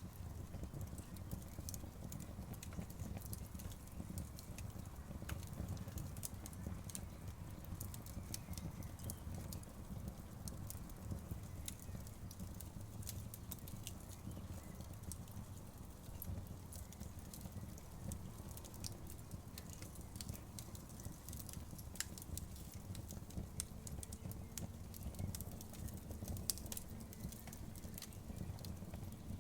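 Wood fire burning steadily: a low rumble of the flames with irregular sharp snaps and crackles, a louder pop about 26 seconds in.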